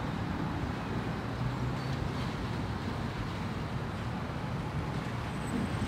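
Steady low rumble of vehicle noise with no distinct events; a faint engine hum shows briefly in the first couple of seconds.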